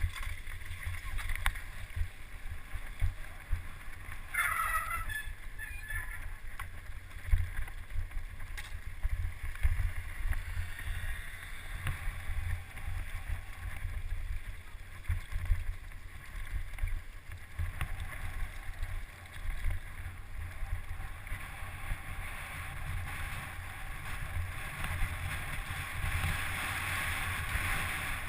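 Wind buffeting the microphone of a camera on a downhill mountain bike at speed, with steady rumble and frequent clicks and rattles from the bike over rough ground. A short pitched sound stands out about four and a half seconds in.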